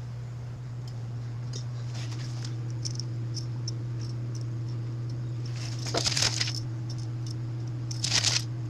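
A steady low hum, with short scratchy rasps about six and eight seconds in from a blade scoring the floured sourdough loaf.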